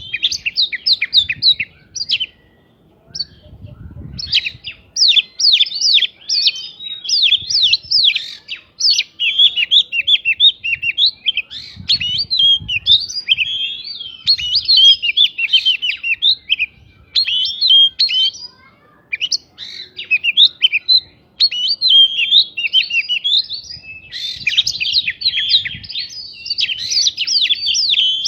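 Oriental magpie-robin (kacer) singing a fast, varied song of chirps, whistles and trills, with prinia (prinjak) phrases worked in. The song pauses briefly about two seconds in, then runs on almost without a break.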